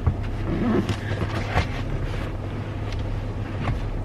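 Car engine idling, heard from inside the cabin as a steady low hum, with a few light knocks and clicks from things being handled.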